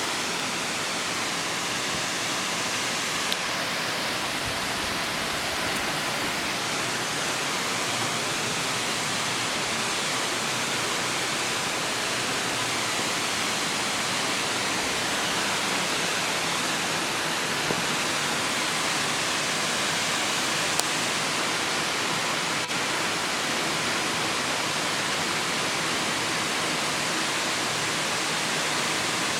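Songlong Rock Waterfall pouring into its pool: a steady, even rush of falling water.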